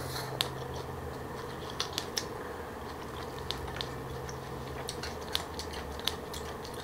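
Close-miked chewing of crunchy shredded green papaya and pig's ear salad: scattered sharp crisp crunches and clicks, about eight in all, over a faint steady hum.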